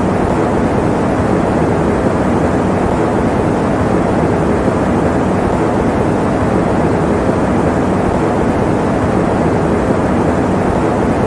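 Electric fan running with a steady, even rush of air, deep and dull with little hiss on top, unchanging throughout.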